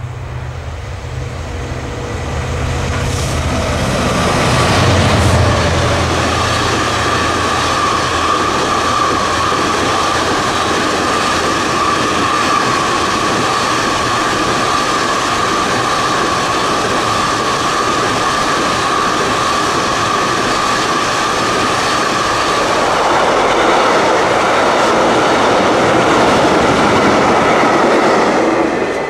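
A Class 66 diesel locomotive passes at speed, its EMD two-stroke V12 engine rumbling loudest about five seconds in. A long train of loaded container wagons follows, rolling by steadily with a high steady whine from the wheels, turning rougher and a little louder near the end before it falls away.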